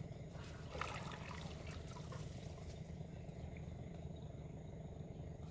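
A hooked fish splashing briefly at the water's surface as it is played in, in short irregular bursts between about half a second and two and a half seconds in, over a steady low rumble.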